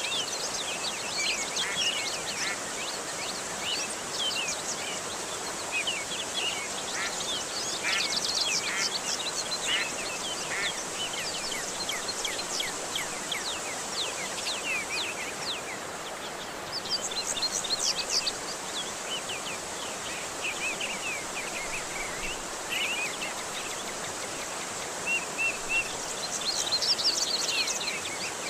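Small birds chirping and trilling in bursts over a steady rush of running water: a water-and-birdsong therapy track of the kind played to a caged oriental magpie-robin to bring it back into song.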